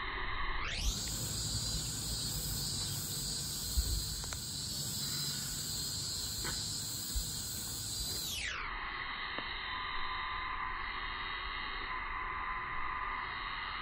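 A steady chorus of insects droning without a break, over a low rumble, with a few light knocks.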